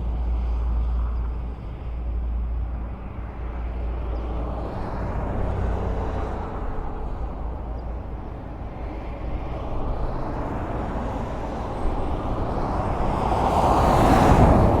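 Highway traffic: a steady wash of tyre and engine noise, with a deep rumble that fades after about five seconds. A vehicle passes close, building to its loudest just before the end.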